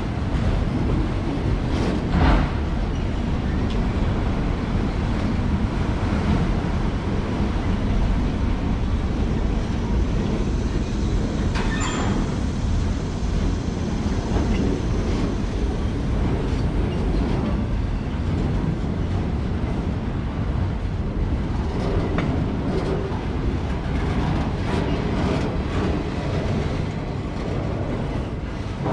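CSX freight train rolling past, its cars' steel wheels giving a steady rumble with occasional clicks over the rail joints.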